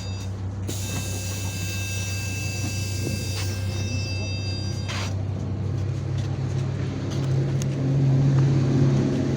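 City bus engine running with a steady low drone. A hiss carrying several high steady tones sounds for about four seconds early on and stops abruptly. In the last few seconds the engine note rises in pitch and gets louder as the bus accelerates.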